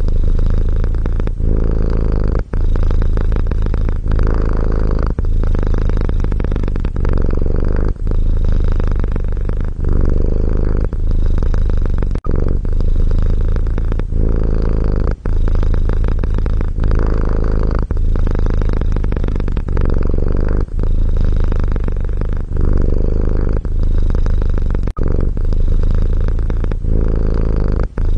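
Domestic cat purring steadily, a continuous low rumble whose tone shifts in a regular cycle every two to three seconds as the cat breathes in and out.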